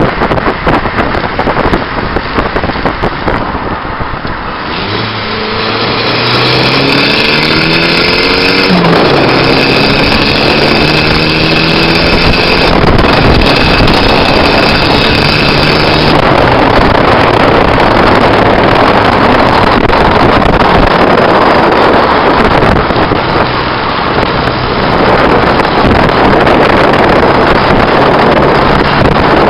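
Turbocharged SR20 four-cylinder of a 1990 Nissan Bluebird accelerating: its note climbs from about five seconds in, drops sharply near nine seconds at a gear change, then holds steady. Heavy wind and road rush on the car-mounted microphone runs underneath and takes over in the second half, where the engine is barely heard.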